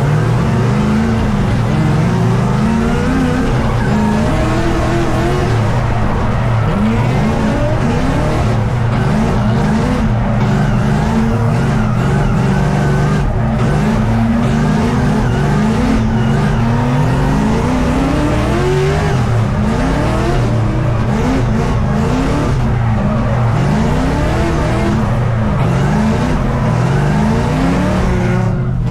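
LS V8 in a BMW E82 drift car, revving up and dropping back over and over while drifting, with tires squealing. The revs stay below the power band, typical of the driver not pushing hard enough and the wrong differential gearing.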